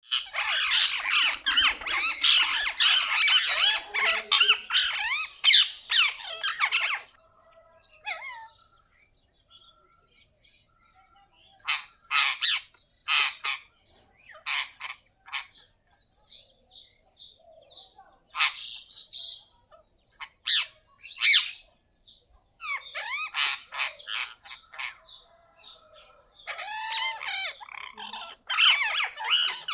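Several parrots squawking: a dense overlapping chorus of harsh calls for the first seven seconds, then scattered squawks and chirps with quiet gaps between, building into another burst of calling near the end.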